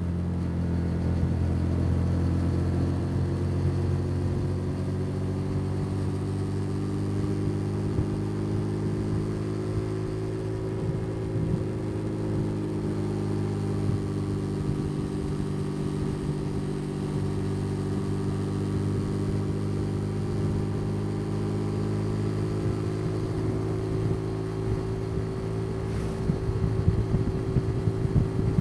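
Motorcycle engine pulling at a steady cruising speed under the rider, its pitch rising slightly in the first few seconds and then holding. Irregular low buffeting comes in near the end.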